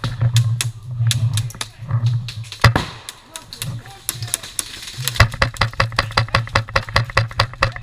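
Airsoft guns firing during a game: scattered shots at first, then rapid strings of shots in the second half.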